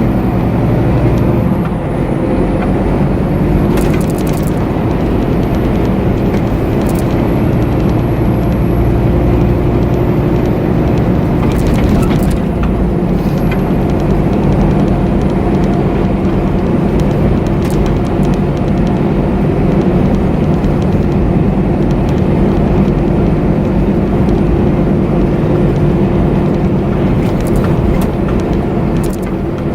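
Scania truck's diesel engine running steadily under way with road noise, with a few sharp clicks or rattles scattered through.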